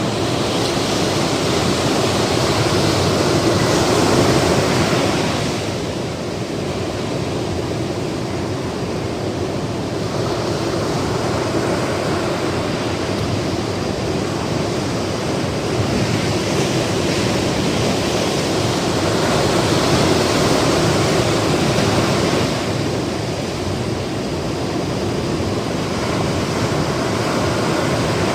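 Ocean surf: a steady rush of waves, swelling louder and hissier as waves break and wash in, fading about five seconds in, swelling again from about sixteen to twenty-two seconds, and rising once more near the end.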